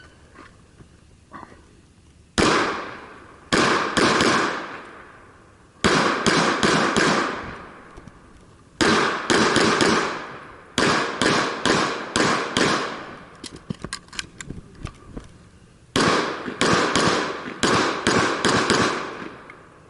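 Pistol shots fired in quick strings of a few shots each, with short pauses between strings, each crack trailing off in echo. A run of lighter clicks comes about midway.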